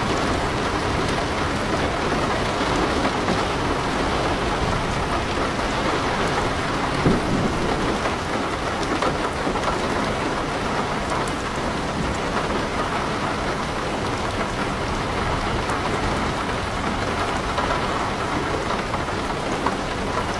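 Heavy rain falling steadily on a house and on leaves, a dense even hiss of many drops, with one brief louder hit about seven seconds in.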